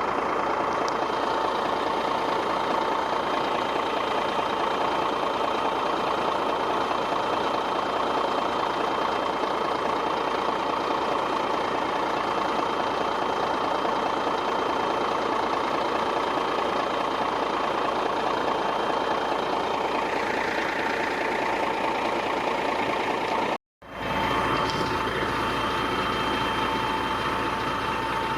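Heavy earth-moving machine's diesel engine running steadily, with a constant high tone over it. The sound cuts out for a moment about 24 seconds in, then carries on.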